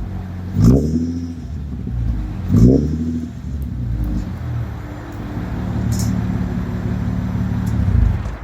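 Infiniti G35's 3.5-litre V6 blipped twice through a Borla Pro XS exhaust with a Tanabe resonator and the catalytic converters cut out, each rev rising and dropping quickly. It then settles to a steady deep idle, with a slight rise near the end.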